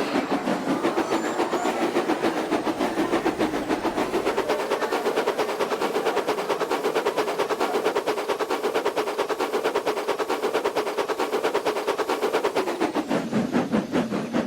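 Small engine running with a rapid, even beat of strokes over a steady hum; near the end the pitch drops and the beats spread out as it slows.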